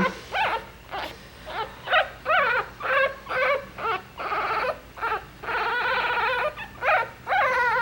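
Newborn Coton de Tulear puppies, one day old, crying: a run of short, high-pitched squeals and whimpers about two a second, with one longer cry a little past the middle.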